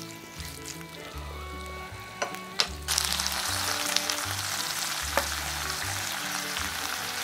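Pork and fish in chili paste frying in a nonstick wok, stirred with a wooden spatula that knocks against the pan a few times; about three seconds in a loud, steady sizzle takes over.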